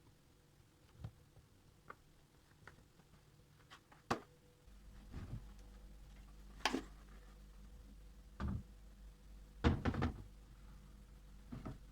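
Household handling sounds: a series of separate knocks and thuds, like things being set down and a door or cupboard being worked. A low steady hum starts just under halfway through.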